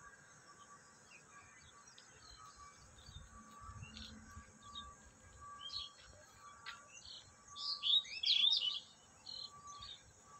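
Small birds chirping and twittering, with a louder cluster of quick rising and falling chirps near the end. A short note repeats steadily about every half second underneath.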